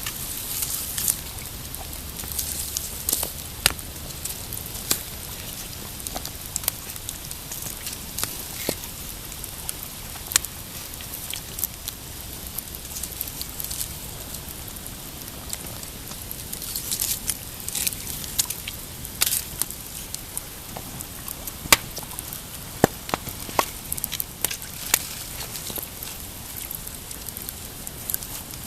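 Pine-wood campfire crackling: a steady hiss with frequent sharp pops, coming thicker about halfway through and again later on.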